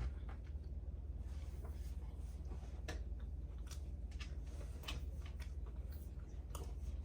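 A person chewing crunchy potato chips and a sandwich, with a few short crisp crunches scattered over a steady low hum.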